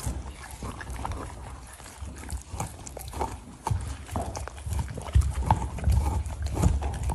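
Huskies gnawing and licking at frozen treats: irregular clicks, knocks and low thumps, busier in the second half.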